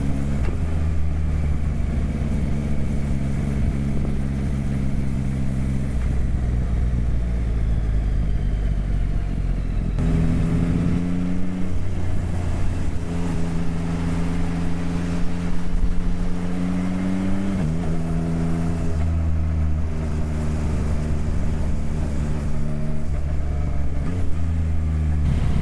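Motorcycle engine heard on-board while riding, running steadily with its pitch shifting in steps every few seconds as the revs change. Wind and road noise sit underneath.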